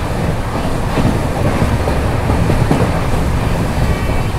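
Passenger train running along the line: a steady rumble of the coach with a few wheel clicks over the rails.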